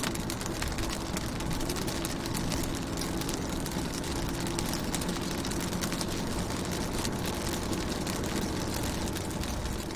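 Rain pattering on a car's windows and roof, heard from inside the car: a dense, steady patter of drops over a low hum.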